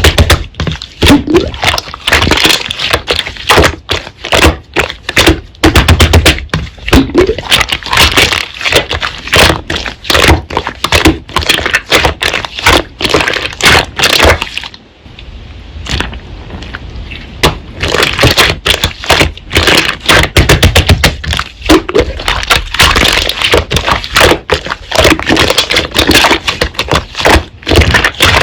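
Slime being squeezed, pressed and folded by hand, making a dense run of sharp crackling and popping clicks. The clicking eases into a softer, quieter stretch a little past the middle, then picks up again.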